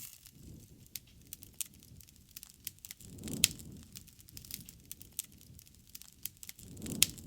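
Wood fire crackling with scattered sharp pops. Two louder snaps, each with a soft low rumble, come about three and a half seconds in and again near the end.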